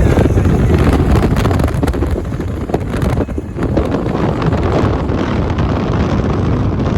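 BNSF manifest freight train rolling past with a steady, loud rumble, mixed with wind buffeting the microphone.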